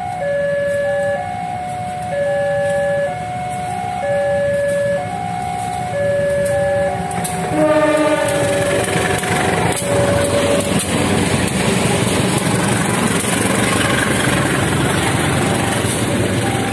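An electronic two-tone level-crossing alarm repeats steadily. About seven and a half seconds in, the CC 203 diesel-electric locomotive gives a short horn blast and then passes through the crossing, its engine and the train's wheels on the rails drowning out the alarm, which comes back faintly near the end.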